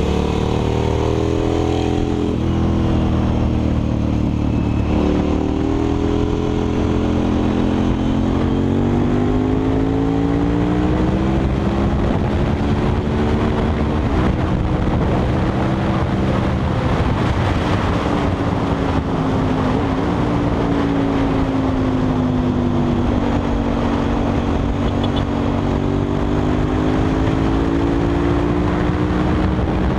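KTM 990 SMR's V-twin engine with a Leo Vince exhaust, ridden hard through bends. Its pitch rises and falls again and again as it accelerates and backs off, under steady wind rush.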